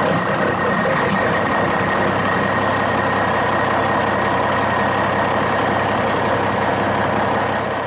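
A steady engine-like drone, as of a truck running, with a held high tone over it.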